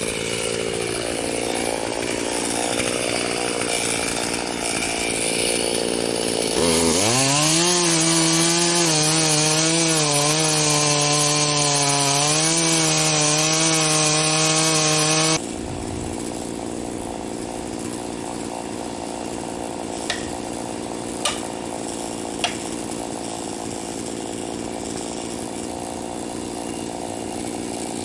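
Poulan 4620 two-stroke chainsaw cutting into a stump. About a quarter of the way in the engine revs up sharply and holds at a high steady pitch. About halfway through the sound drops abruptly to a quieter steady run, with a few short clicks.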